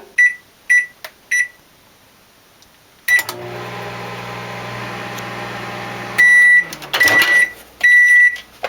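Microwave oven keypad beeping three times as the time is set, then the oven starts and hums steadily for about three seconds. The hum stops and three long, louder beeps follow, the end-of-cycle signal.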